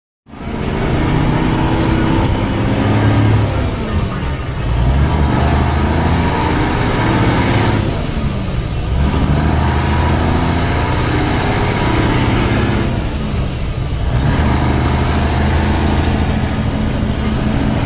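Semi truck's diesel engine pulling hard through the gears. The engine pitch climbs, then drops at each of three upshifts, about four, eight and a half, and fourteen seconds in.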